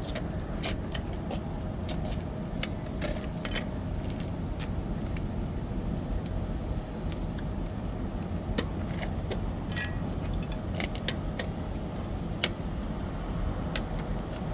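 Irregular metallic clinks and clicks of hand tools being worked during a roadside tire change, with one louder knock near the end, over a steady low rumble.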